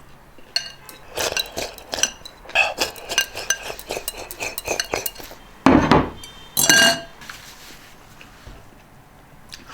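Tableware clinking during a meal: utensils tapping against bowls and dishes in many quick small clicks, with two louder ringing knocks about halfway through.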